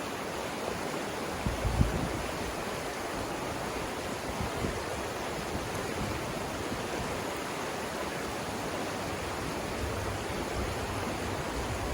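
Savannah River rapids: water rushing over the rapids in a steady, even roar. Brief low rumbles come through about two seconds in and again near the end.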